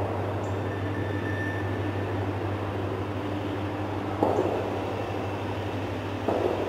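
Steady low drone with a hiss over it, as of a distant diesel freight train approaching unseen, with a few soft bumps about every two seconds.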